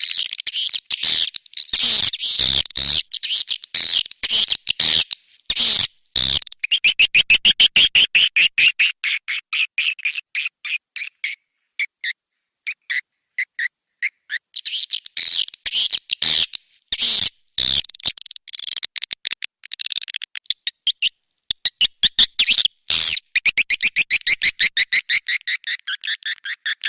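Swiftlet lure-call recording: dense bursts of rapid, high chirps and twitters alternating with faster, thinner chattering trills, cut by abrupt silent gaps.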